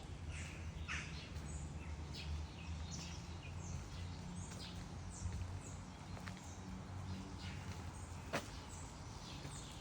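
Birds chirping in scattered short calls over a steady low outdoor rumble, with one sharp click about eight seconds in.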